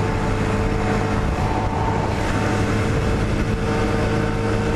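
Honda Grom's small single-cylinder four-stroke engine running hard at high, steady revs, held near its top speed on the freeway, under a steady rush of wind noise.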